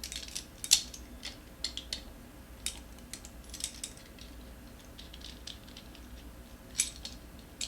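Vise-grip locking pliers being handled and clamped onto the scooter tire at the rim: scattered sharp metallic clicks and clinks, with a louder click about a second in and another near the end.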